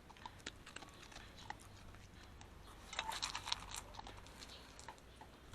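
A dog crunching and chewing dry food, in faint scattered crunches with a denser run about three seconds in.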